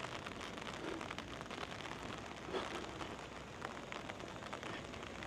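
Steady monsoon rain falling, a dense patter of many small drop hits.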